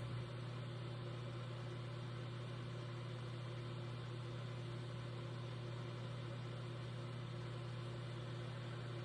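A steady low mechanical hum, like a motor or engine running at idle, unchanging throughout.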